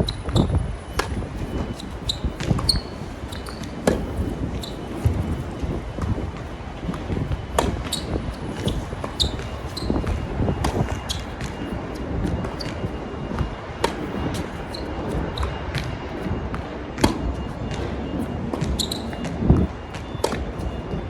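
Tennis rally: the ball is struck by rackets and bounces on the hard court, a sharp pop roughly every second. Wind rumbles on the microphone.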